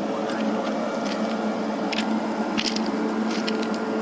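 A steady machine hum with several short, sharp scratchy noises over it.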